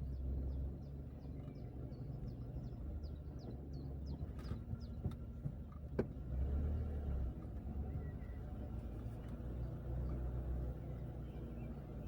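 Car driving along a forest road: a steady low rumble of tyre and engine noise. A rapid run of faint high chirps, about three or four a second, carries through the first five seconds, and a single sharp click comes about six seconds in.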